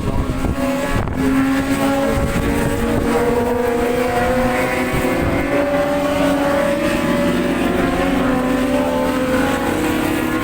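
Several 600cc supersport racing motorcycle engines running together on the starting grid, their pitches wavering slowly up and down with light revving. Wind buffets the microphone.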